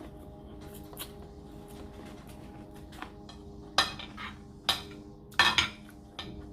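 Eating utensils clinking and scraping against a dish: a few faint taps early, then sharper clinks from about four seconds in, with the loudest cluster near the end.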